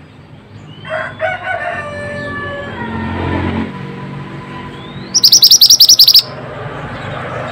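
Mantenan (pied bushchat) song: scattered chirping notes, then about five seconds in a loud, rapid, high trill of about a dozen notes lasting about a second.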